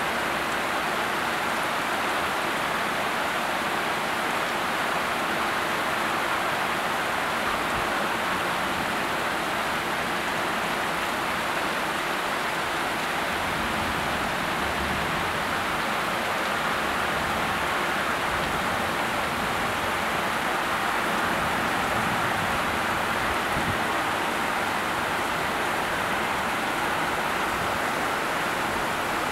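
Heavy hurricane rain falling onto a flooded parking lot: a steady, even hiss of downpour splashing on standing water.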